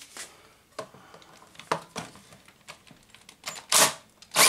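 Scattered clicks and knocks of tools and metal parts being handled while a miter saw is taken apart, with a short loud rasping burst a little before the end.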